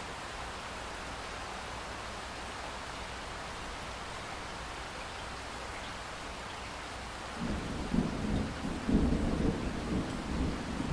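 Steady hiss of falling rain; about seven seconds in, a low rolling rumble of thunder sets in and grows louder, surging unevenly over the rain.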